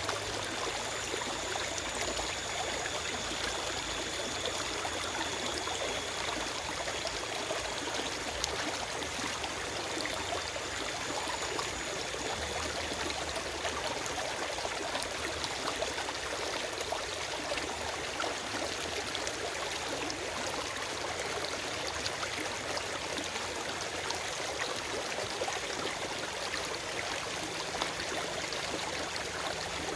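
Forest stream running steadily: an even, unbroken wash of flowing water.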